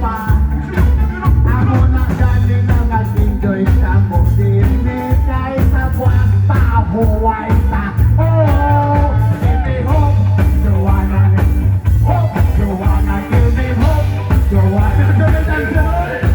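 A live rock band playing loudly with a singer over a heavy, pulsing bass line.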